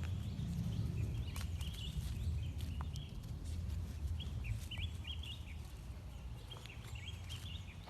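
Short high-pitched animal chirps, coming in clusters, over a steady low rumble.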